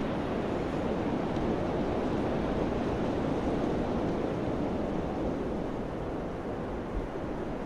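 Wind blowing steadily, a continuous rushing that eases slightly near the end.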